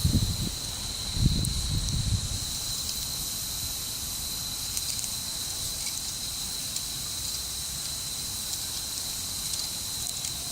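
Wood campfire burning with a steady hiss and scattered small crackles, with low rumbling swells in the first two seconds. A thin, steady high whine runs underneath.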